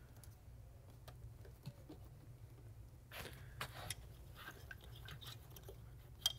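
Faint clicking and rustling of plastic electrical connectors and rubber vacuum lines being handled and pushed onto the supercharger's solenoids, with one sharp click near the end.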